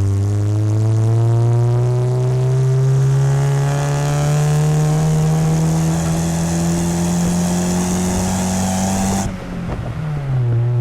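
Exhaust of a 1997 Corsa Wind 1.0 MPFI four-cylinder through a JK aftermarket muffler, heard close to the tailpipe, pulling under acceleration with its note rising steadily. About nine seconds in the revs drop abruptly at a gear change, and it pulls again at a lower pitch.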